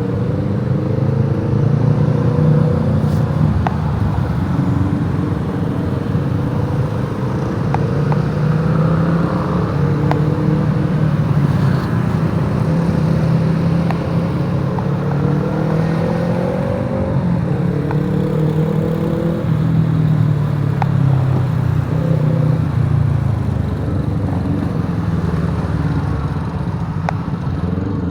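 Motorbike engine running under way with road noise, its note rising and falling as the bike speeds up and slows down.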